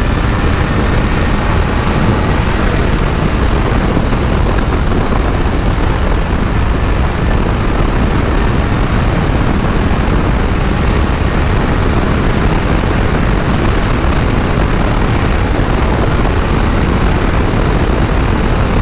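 Kawasaki Z900 inline-four motorcycle cruising at a steady speed on the highway: a constant rush of wind over the rider's helmet mic mixed with the engine's drone, with no change in pace.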